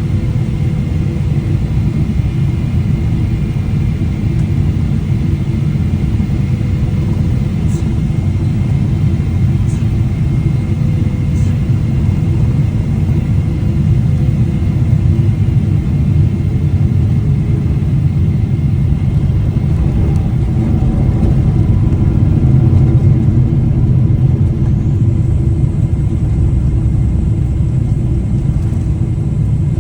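Boeing 777 airliner during landing: a steady, loud low rumble of engines and airflow, with a few faint clicks and a thin high tone coming in near the end.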